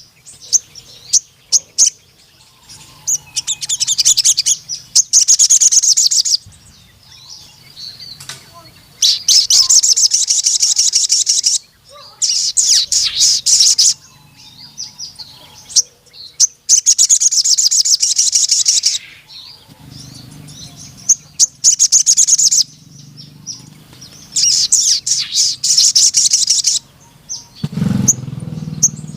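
Sogon sunbird singing vigorously: a series of loud, high, rapid trilling phrases a few seconds each, broken by short pauses.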